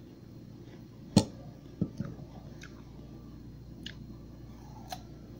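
A person biting and chewing crisp slices of bidara (Indian jujube) fruit. There is a sharp crunch about a second in and another just after, then fainter chewing clicks.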